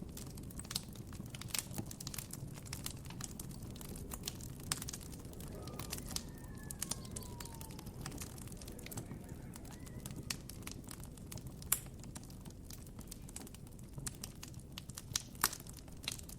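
Campfire crackling, with irregular sharp pops and snaps over a steady low rush. A faint bird call with a falling glide sounds about six to seven seconds in.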